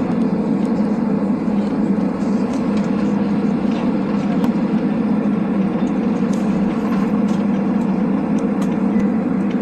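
Steady cabin rumble of a Boeing 767-300ER's jet engines and air conditioning, heard from inside the cabin while the airliner taxis before takeoff.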